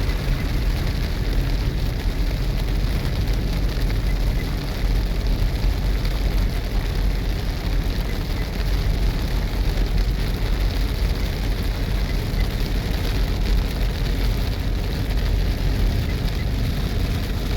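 Steady rain and gusting wind during a thunderstorm, with the wind buffeting the microphone in a loud, even rush.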